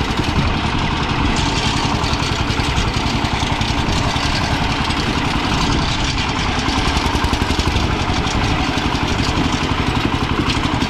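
Walk-behind tractor's diesel engine running steadily, a fast, even chugging that holds through.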